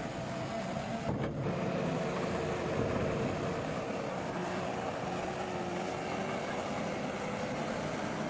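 Bulldozer's diesel engine running steadily as it works, with a faint whine riding over the engine noise.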